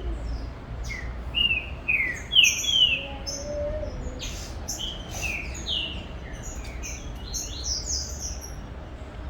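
Green-winged saltator (trinca-ferro) singing: a run of short, clear whistled notes, many sliding downward, with higher notes mixed in.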